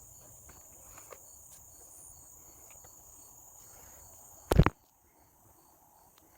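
Forest insects shrilling, a steady high-pitched whine with a faint regular chirp about two or three times a second. About four and a half seconds in comes a single loud thump, after which the insect sound drops away.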